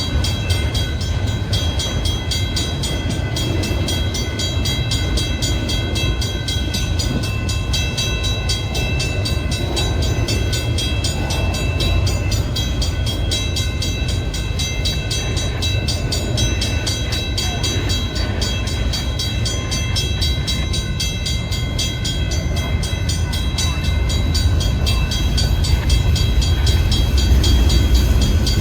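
Freight cars of a long manifest train rolling past on the rails: a steady rumble of wheels on track that grows a little louder near the end.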